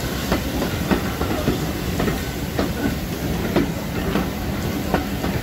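Steam-hauled heritage train running along the line, its wheels clicking over the rail joints about twice a second above a steady running noise.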